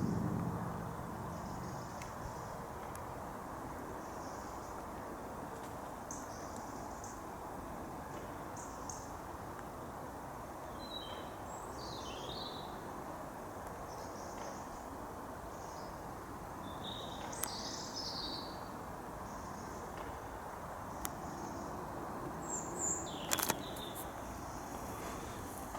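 Small birds chirping now and then over a steady low outdoor hum. A louder low rumble fades out in the first second.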